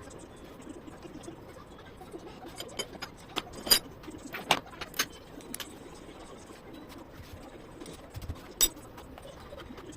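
Sharp metallic clicks and taps of tools and engine parts being handled, a quick run of them a few seconds in and one more near the end, over a low background hum.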